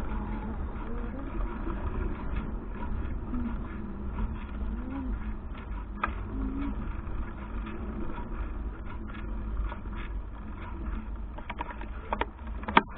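Wind rumbling on a bicycle's handlebar-mounted action camera while riding, with clicks and rattles from the bike. A cluster of sharper knocks comes near the end.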